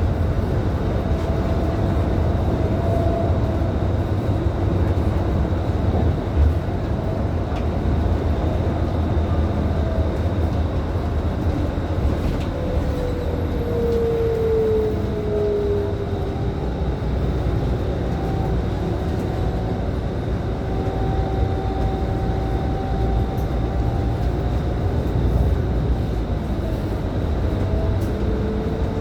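Scania K310IB 6x2 city bus under way, heard from inside: a steady low engine and road rumble, with faint whines that slide up and down in pitch as it speeds up and eases off. A single knock about six and a half seconds in.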